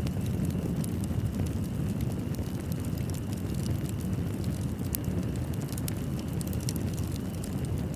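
Fireplace burning: a steady low roar of the flames with frequent small sharp crackles and pops from the wood.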